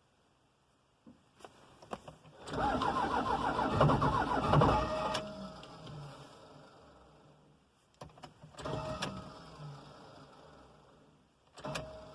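Starter cranking a Cummins diesel in two bursts, the first about two and a half seconds and the second shorter, with clicks before and between them; the engine does not catch. The starter is failing, its mounting bolts stripped.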